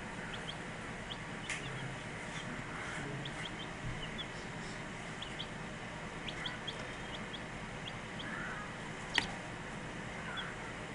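Baby Barred Rock chicks peeping in scattered short high chirps over a steady background hiss, with one sharp click about nine seconds in.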